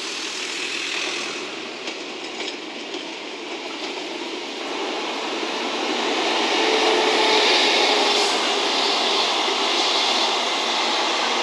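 Locomotive-hauled train of 12-series passenger coaches passing, with an EF65 electric locomotive at one end and a DE10 diesel at the other: a steady rumble of wheels on rail that grows louder about halfway through and then holds.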